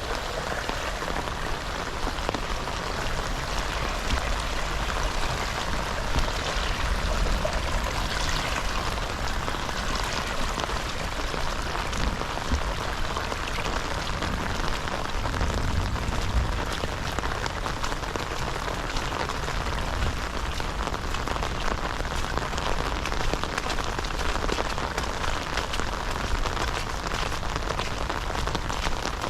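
Heavy rain falling steadily: a dense, even hiss with countless close drop hits ticking through it.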